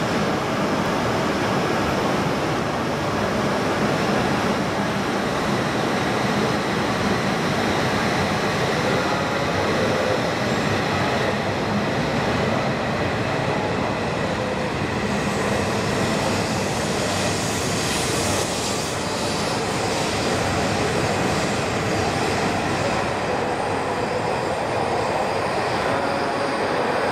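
An E5+E6 coupled Shinkansen train moving along the station platform: a steady, even rolling noise, with a higher hiss building about two-thirds of the way through.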